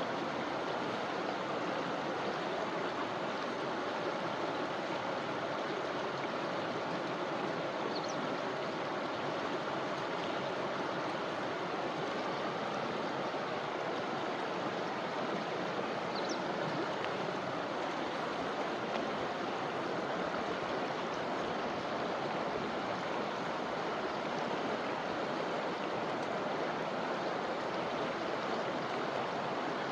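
Forest river flowing over stones, a steady rushing and gurgling of water. A couple of faint short high chirps sound briefly, about a third and halfway through.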